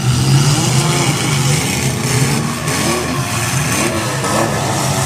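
Several demolition derby car engines revving at once, their pitches rising and falling over one another.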